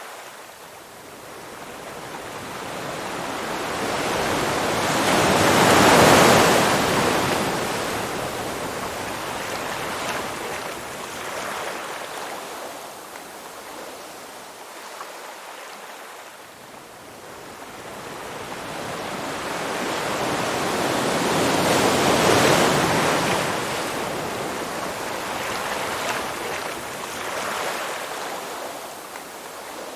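Surf of waves washing ashore: two long swells, each building for several seconds to a peak, about six seconds in and again about twenty-two seconds in, then easing back into a lower hiss.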